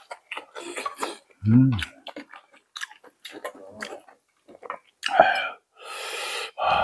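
Close-miked chewing of spicy stew and peppers, with many small wet mouth clicks and a short hum about a second and a half in. Near the end come two louder noisy sounds of sipping the broth.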